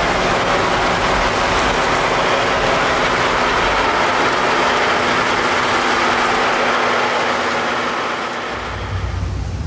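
Storm wind and heavy rain blowing hard, a dense, even rush with a steady low hum underneath. Near the end the rush fades and a low rumble takes over.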